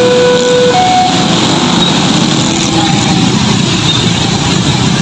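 Road traffic with engines running, and steady pitched horn tones alternating between two notes in the first second.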